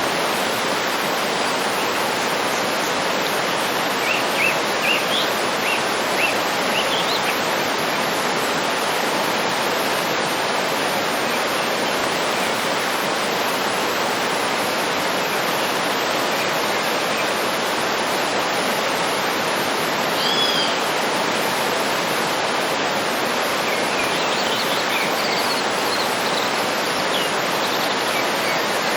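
Waterfall rushing steadily, with small birds chirping over it: a run of short chirps a few seconds in, a curved two-note call about two-thirds through, and more chirps near the end.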